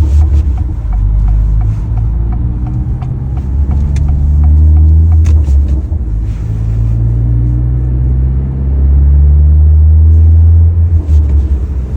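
Acura Integra's turbocharged four-cylinder through an MBRP aftermarket exhaust, accelerating hard, heard from inside the cabin. The note climbs in pitch through each gear and drops at the upshifts, at about a second in, around the middle, and near the end.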